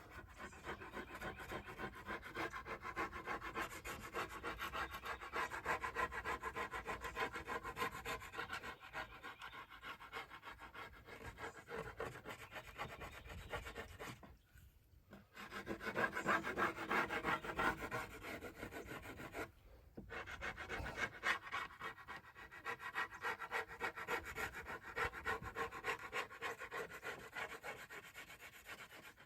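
A scrap of wood scraping old glue, softened with Goo Gone, off a wooden kick drum shell in repeated strokes, with two short pauses about halfway through.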